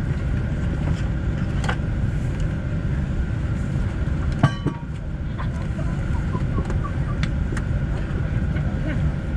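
Steady low rumble inside a Boeing 747-8 airliner cabin, with scattered small clicks and one sharp knock about four and a half seconds in.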